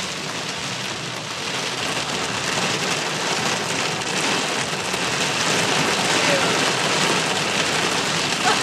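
Heavy downpour hitting a moving car's windshield, heard from inside the car as a dense, steady hiss that grows slightly louder.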